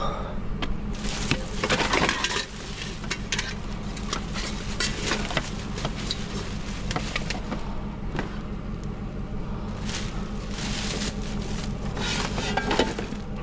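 Scrap being rummaged through by hand: irregular clinks and clatters of metal and plastic pieces with rustling, over a steady low hum.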